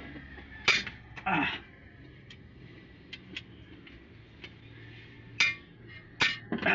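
Sharp metallic clinks and knocks, a few seconds apart, with small ticks between: metal tools and parts being handled during an engine overhaul.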